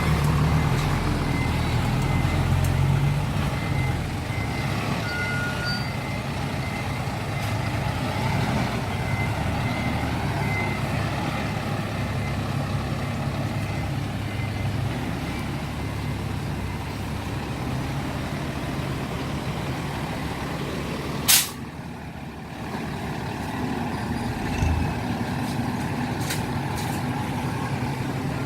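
Six-wheel dump truck engines running steadily at road speed, with road noise. A single sharp crack comes about two-thirds of the way through, after which the level briefly drops.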